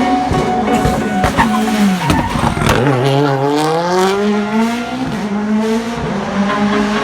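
Toyota Yaris WRC's turbocharged 1.6-litre four-cylinder rally engine on a demo run: the engine note drops as the car slows, with sharp cracks and pops from the anti-lag system about one to three seconds in, then climbs again as it accelerates hard.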